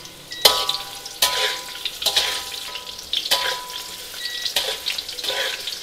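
Tempe frying in hot oil, sizzling steadily, while a utensil strikes and scrapes the pan about six times, each hit ringing briefly like metal.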